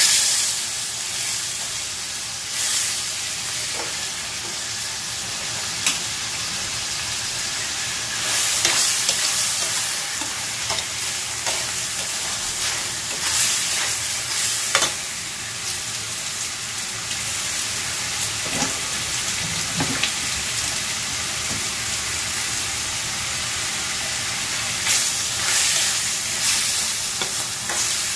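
Chicken pieces sizzling in hot oil in a stainless steel wok, being sautéed until golden brown, while a metal spatula stirs and turns them, scraping and clinking against the pan now and then.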